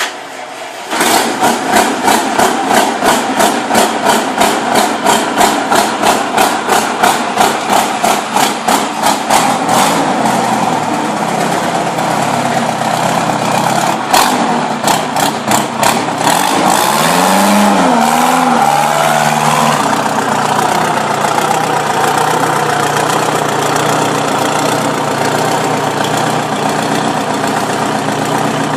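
Motorcycle engine running loudly, pulsing evenly about twice a second for the first several seconds, then running more steadily.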